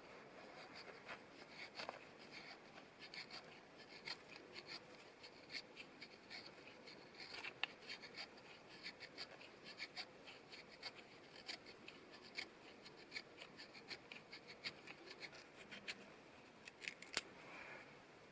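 Irregular light clicks and crackles, several a second, over a faint hiss, with a louder pair of sharp snaps near the end.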